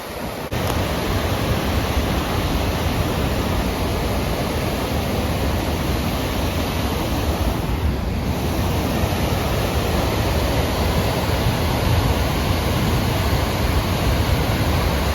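Waterfall rushing, a steady, loud roar of falling water, with some low wind rumble on the microphone.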